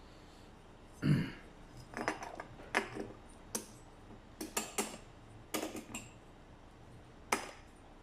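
Metal hand tools and small engine parts clinking and tapping as they are handled, about a dozen separate sharp clicks with a heavier knock about a second in.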